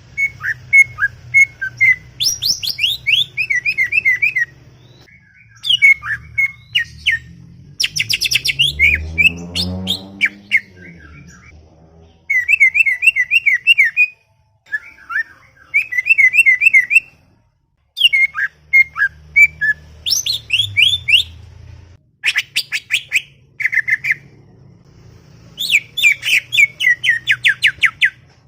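Green leafbird (cucak ijo) singing in busy bouts of fast chattering trills and clipped whistles, phrase after phrase with short pauses between. A low rising sound rises beneath the song about nine seconds in.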